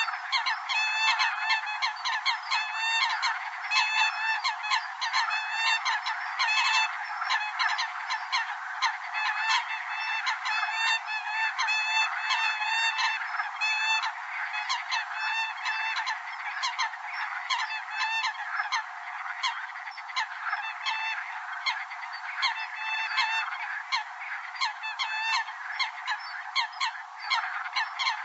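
Eurasian coots calling: short honking calls repeating rapidly and overlapping without pause, the sound thin and with no bass. This is a coot lure call, played to draw coots in.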